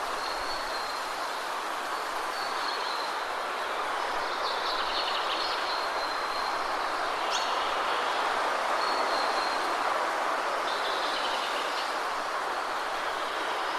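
Steady rushing of a waterfall, with birds chirping high above it every couple of seconds.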